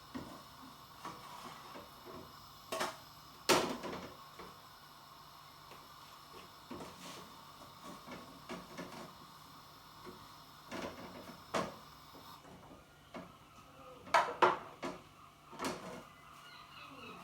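Kitchen handling sounds: scattered knocks and clinks of dishes and utensils being set down and moved, the loudest about three and a half seconds in and a quick run of them near fourteen seconds, over a faint steady hum.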